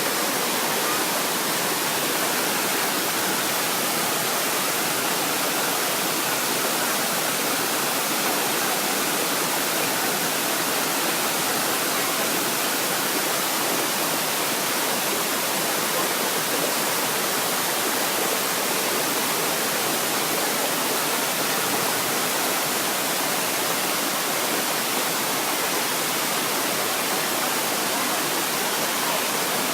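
Steady, even rush of a jungle waterfall cascading into a pool.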